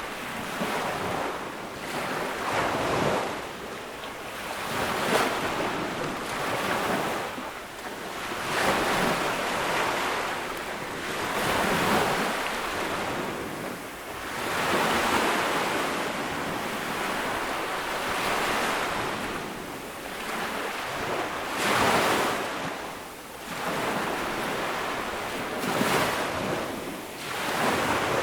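Ocean waves breaking on a beach, the surf swelling and washing back every few seconds.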